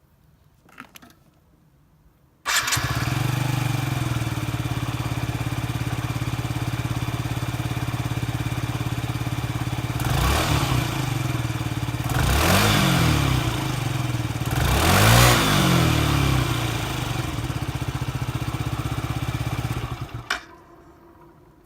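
Yamaha Jog SA36J 50 cc scooter's engine starting about two seconds in and idling, blipped three times with the revs rising and falling, then switched off near the end.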